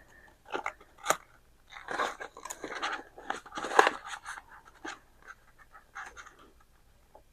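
Paper banknotes and envelopes being handled: short crinkles and rustles with a few light clicks, busiest around the middle, as cash is put back in a budget-binder envelope and the next envelope is taken out.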